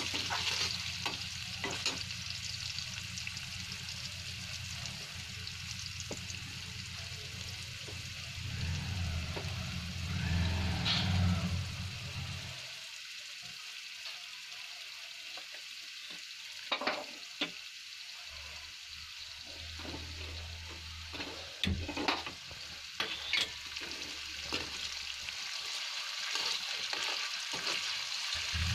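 Paneer cubes sizzling as they shallow-fry in hot oil in a frying pan. A slotted spoon stirs them, knocking and scraping against the pan a few times in the second half.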